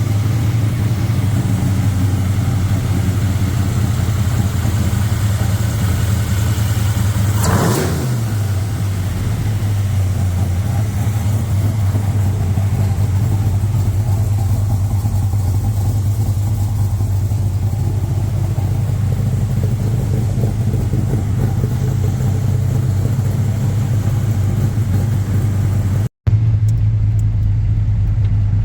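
572-cubic-inch V8 truck engine idling steadily, with one quick rev that rises and falls about seven to eight seconds in. The sound breaks off for a moment near the end.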